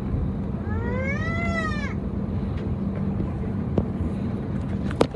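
Steady drone of an Airbus A321neo's cabin while taxiing, with one short, high, wordless vocal squeal rising then falling about a second in, and a couple of sharp rattling clicks near the end.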